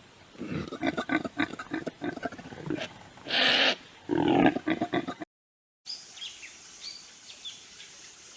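An animal calling in a rapid series of harsh calls for about five seconds, the longest and loudest near the middle; after a sudden brief dropout to silence, small birds chirp faintly in short falling notes.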